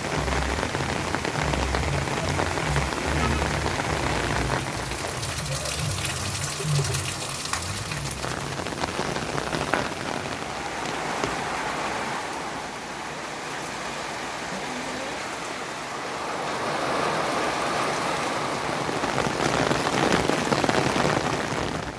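Heavy rain falling steadily, a dense hiss of drops striking surfaces, with a low rumble underneath for the first eight seconds or so.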